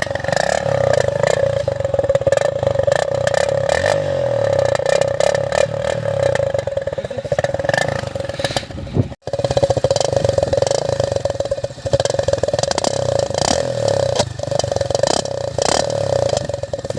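TVS Star City single-cylinder four-stroke motorcycle being ridden with an empty Thums Up can wired over its exhaust, the engine note turned into a steady buzz with rapid metallic rattling from the can. The sound cuts out for a moment about halfway.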